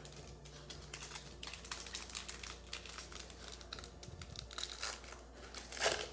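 Trading card pack wrapper crinkling and being torn open, with the cards handled, and a louder crackle of the wrapper near the end.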